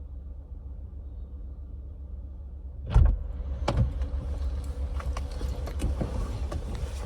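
Low steady rumble of a vehicle. About three seconds in comes a thump, then a run of sharp clicks and knocks over a hiss.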